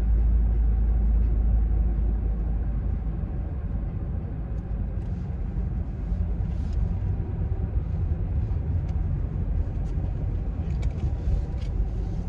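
Car interior noise while driving: a steady low rumble of engine and road, a little louder in the first two seconds, with a few faint clicks.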